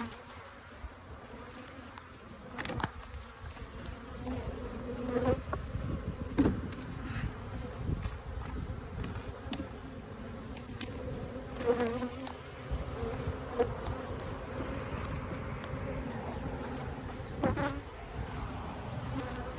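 Honeybee colony buzzing around an opened hive, the bees agitated by the inspection. Several sharp wooden knocks of hive frames being slid back into the box break through the buzz.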